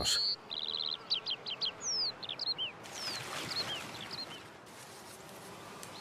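Small birds calling: a short buzzy trill, then a run of quick high chirps and downslurred whistles over a faint steady hiss, thinning out in the second half.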